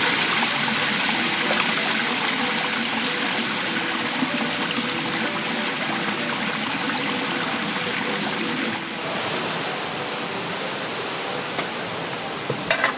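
River water rushing and splashing in a steady roar, stepping down a little in level about nine seconds in.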